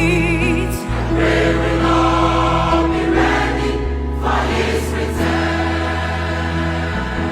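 Gospel music: voices singing together over long, steady low bass notes.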